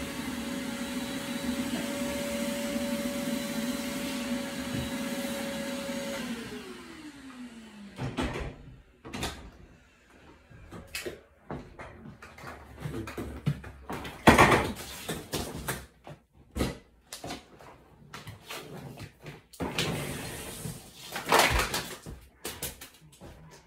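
Vacuum cleaner running with a steady whine, switched off about six seconds in, its motor pitch falling as it winds down. Then a string of scattered knocks and clatters.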